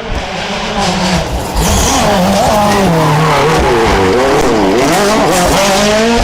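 Rally car engine revving hard, its pitch rising and falling quickly several times as the throttle is worked. It gets much louder about two seconds in.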